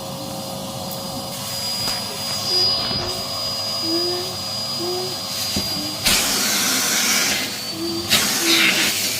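Numatic Henry vacuum cleaner running with a steady motor whine, with two louder rushes of noise about six and eight seconds in.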